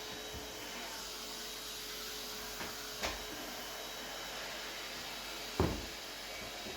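A few dull knocks over a steady hiss: two faint ones about three seconds in and a louder, deeper one near the end.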